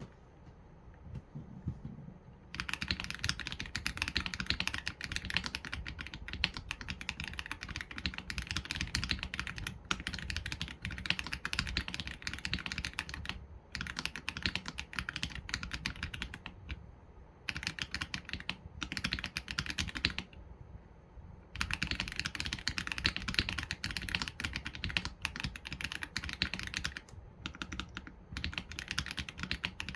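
Mechanical keyboard with Leobog Graywood V3 linear switches and PBT keycaps being typed on steadily: a dense run of rapid keystroke clicks that starts about two and a half seconds in, broken by a few short pauses, the longest about a second.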